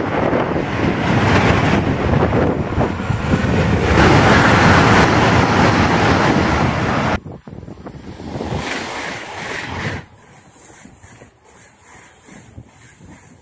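A high-speed train passing at speed: a loud, even rushing noise of wheels and air, with wind on the microphone. It cuts off abruptly about seven seconds in, leaving a much quieter rushing that drops again about ten seconds in.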